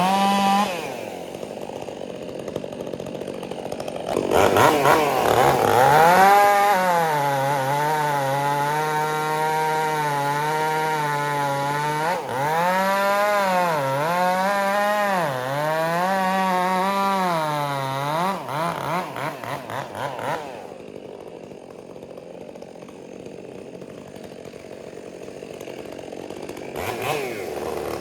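STIHL MS 400 C two-stroke chainsaw with a Straight Shot exhaust. It revs up and cuts wood under load for about twelve seconds, its pitch dipping several times as it bogs in the cut, then drops back to idle and revs again near the end. The owner feels the straight-pipe exhaust may have cost it some torque.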